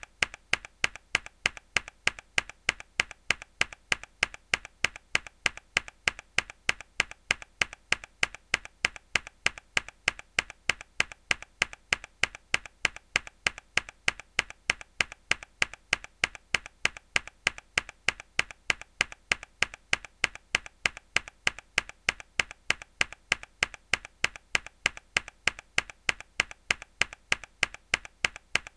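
Mechanical keyboard key pressed hard, the same single keystroke repeated in a loop: sharp clicks, evenly spaced at about three a second.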